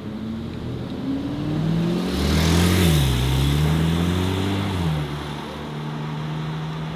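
A car's engine revving up as it pulls away and passes close by. The pitch climbs, drops sharply at about three seconds like a gear change, then climbs again. About five seconds in the driver eases off and the engine settles to a steady, lower note.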